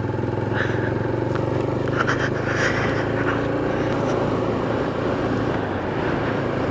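Motorcycle engine running at a steady pace while riding, its note holding even with no change in revs.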